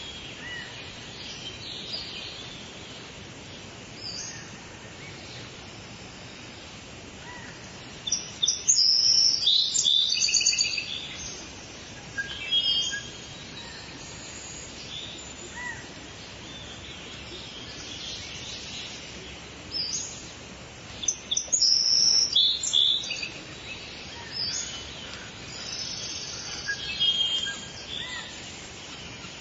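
Several birds singing and chirping in short high phrases over a steady background hiss of outdoor ambience, with two louder spells of song: one about a third of the way in and one past two-thirds.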